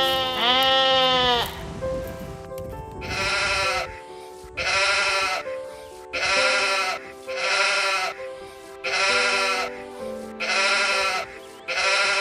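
Sheep bleating over background music: two long quavering bleats at the start, then a steady run of about six shorter bleats, one every second and a half.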